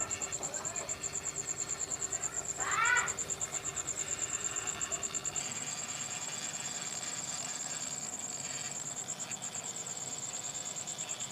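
A steady, high-pitched insect trill pulsing about ten times a second, like a cricket, with a short rising chirp about three seconds in.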